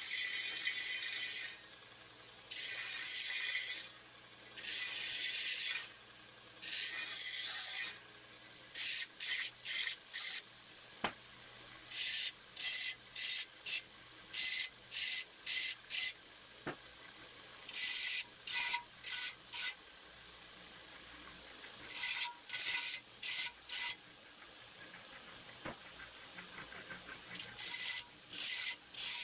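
Hand file strokes on steel tubing, deburring the cut ends. A few long, slow push strokes come first, then quicker short strokes in bunches, with a quiet gap between strokes as the file comes back.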